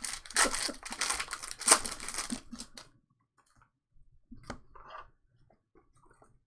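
Trading card pack wrapper being torn open and crinkled, a rapid ripping rasp for about three seconds, then a few faint taps.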